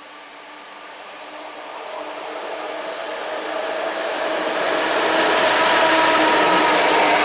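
EP09 electric locomotive hauling an Intercity passenger train, approaching and passing at speed. The rushing rail and wheel noise grows steadily louder for about five seconds, then holds at full loudness, with a steady hum of several tones running through it.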